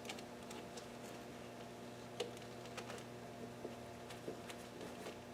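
Faint, scattered light clicks and taps from hands handling hoses and small parts in an engine bay, a few seconds apart, over a steady low hum.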